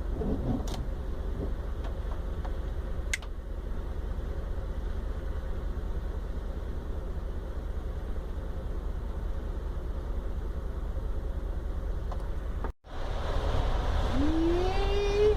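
Steady low rumble of a van's engine and road noise, heard from inside the cab. Near the end the sound cuts out abruptly for a moment, and a short rising tone follows.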